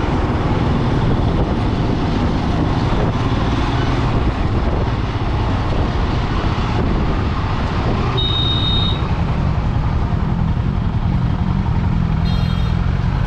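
Steady vehicle engine and road noise while travelling along a road. A short high-pitched tone sounds about eight seconds in, and another brief one comes near the end.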